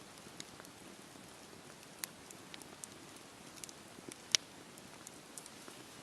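Campfire burning with a steady low rush of flame and scattered crackles, with one sharp pop about four seconds in.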